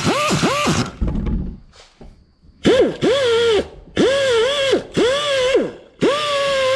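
Power grinder grinding down rough welds on the car body's sheet metal. It runs in short bursts of about a second each, its whine spinning up, holding and dropping away, with its pitch dipping as it is pressed to the metal.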